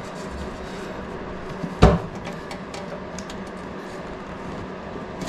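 A single sharp knock about two seconds in, with a few faint clicks of hands working on hoses and parts, over a steady low hum.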